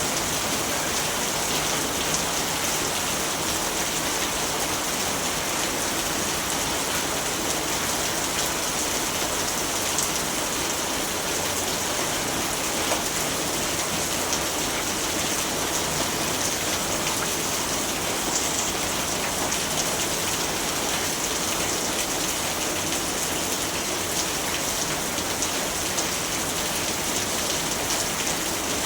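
Steady rainfall, a continuous even hiss of rain with faint scattered drop ticks.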